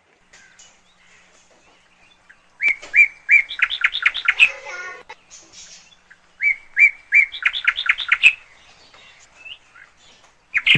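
A bird singing outdoors: two bursts of repeated sharp, high notes that speed up as they go, with a few faint chirps between them.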